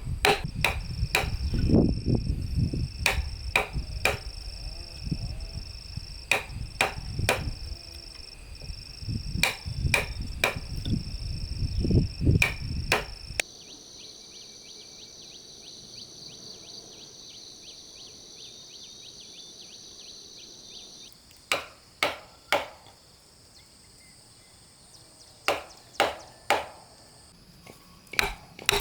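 Sharp knocks of a tool striking wood, irregular, about two a second, over a low rumble and a steady high insect trill. About halfway through the knocks and rumble stop, leaving only the insects for several seconds. Then a few sparser knocks come back near the end.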